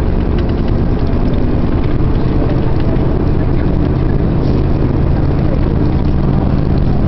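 Steady low drone of a vehicle's engine with continuous road noise while travelling.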